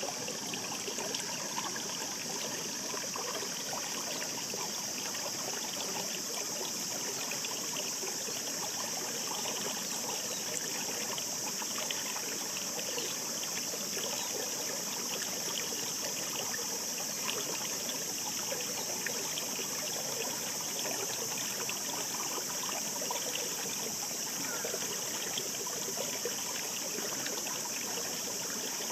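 Shallow mountain stream babbling and trickling over rocks, a steady wash of water with many small gurgles and a constant high hiss.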